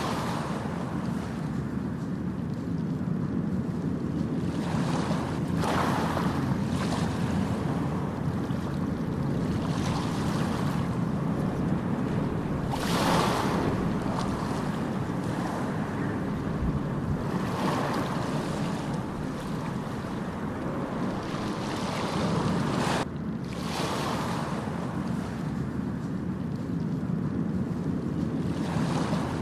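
Ocean surf: a steady rush of breaking waves, with a fresh wave washing in every few seconds.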